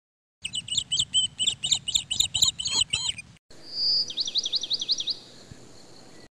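Birds singing: a run of quick, repeated high chirps, then after a brief break a single held whistle followed by a fast series of falling notes.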